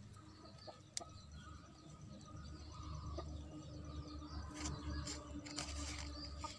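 Small birds chirping in the background, with a few clicks and brief rustles as a plastic nursery bag holding a small potted plant is handled. A low steady hum comes in about halfway through.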